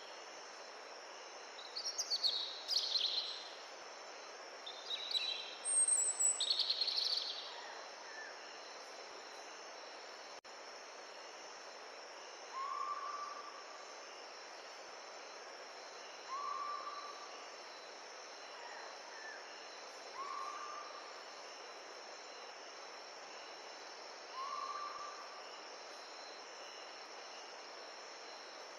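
Forest stream running steadily, with birds calling: a few quick high chirps early on, then a lower short call repeated four times about every four seconds. A faint steady high insect trill runs underneath.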